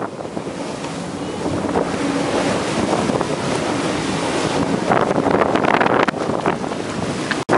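Jet ski running across open water, its engine partly buried under heavy wind buffeting the microphone and rushing water. The sound cuts out for a moment near the end.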